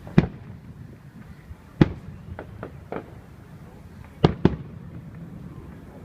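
Aerial firework shells bursting: a loud bang just after the start, another just before 2 seconds in, a few smaller pops around 2.5 to 3 seconds, and two loud bangs in quick succession about 4 seconds in.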